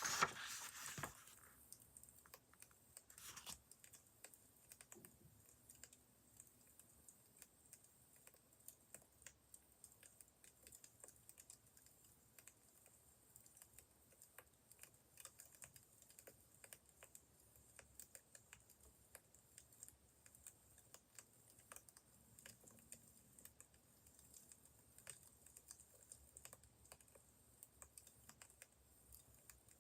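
Wood fire crackling quietly: a steady scatter of small irregular snaps and pops, with a louder burst of crackle right at the start and another about three and a half seconds in.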